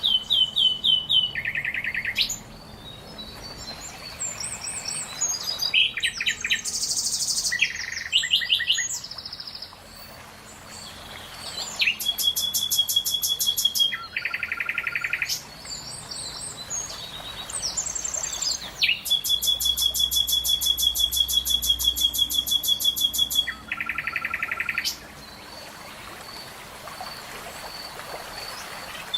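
Songbirds singing: rapid trills and chirps at several different pitches follow one another, the longest trill running about four seconds in the second half.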